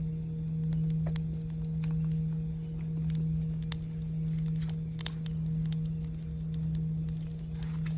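A singing bowl's low sustained tone, pulsing slowly as it swells and fades about once a second, over a campfire crackling with scattered small pops and one sharper pop about five seconds in.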